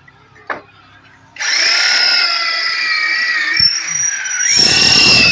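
An electric drill (a rotary hammer in drill-only mode) starts about a second and a half in and bores into a hard metal chimney bracket, its bit squealing against the metal in high tones that waver in pitch; the bit is struggling to cut the hard alloy.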